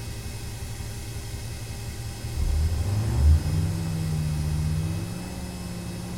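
Armoured personnel carrier's engine running with a low, rough rumble. About two seconds in it revs up, then holds a steady, higher note.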